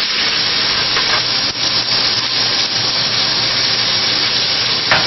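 Roast beef browning in hot oil in a pot, sizzling steadily.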